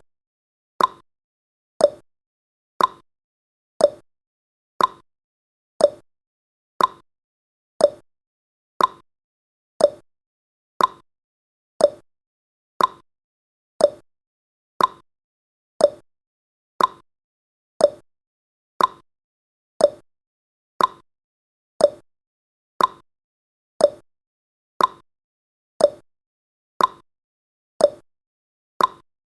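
Clock ticking sound effect of a countdown timer: short, sharp ticks evenly spaced at one a second, alternating slightly higher and lower in pitch like a tick-tock.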